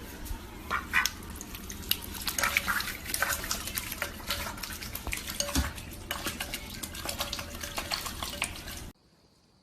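Light clattering and clinking of small hard objects, many quick irregular clicks over a low hiss, cutting off abruptly near the end.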